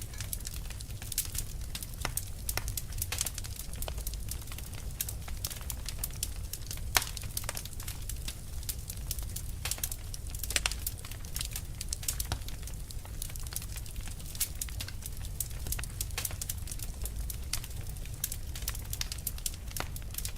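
Fire crackling steadily, with frequent sharp pops and snaps over a low, even rumble; one louder pop stands out about seven seconds in.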